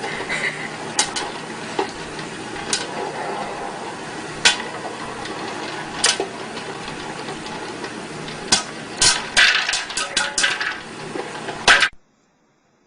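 Sharp knocks and clattering, scattered at first and then in a quick cluster, over a steady noisy background, cutting off abruptly near the end.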